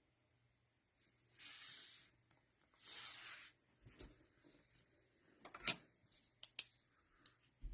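Quiet handling sounds of trading cards and packaging on a table: two soft swishes of sliding or brushing, then a scatter of small clicks and taps.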